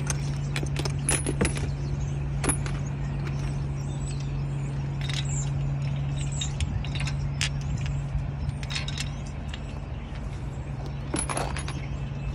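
Scattered light metallic clinks and rattles from tools and parts being handled on a 125cc dirt bike while its spark plug is taken out, over a steady low hum.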